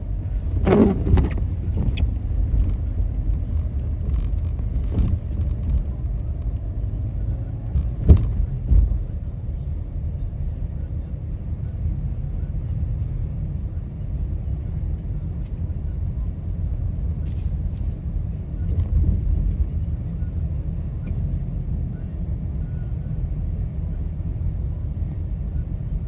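Steady low rumble of a car driving through city traffic, with a short pitched sound about a second in and a single sharp knock about eight seconds in.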